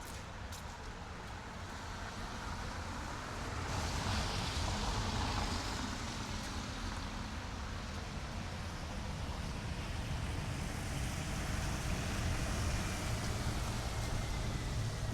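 City street ambience with passing road traffic: a vehicle's tyre and engine noise swells about four seconds in, over a steady low rumble.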